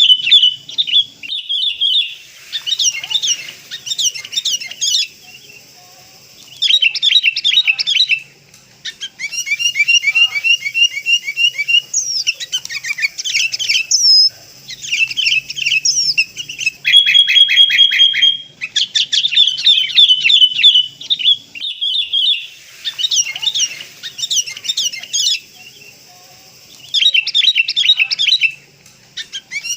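Sooty-headed bulbul calls: loud bursts of rapid, chattering chirps, several times over, each burst a second or more long with short pauses between, played as a lure to draw in wild bulbuls.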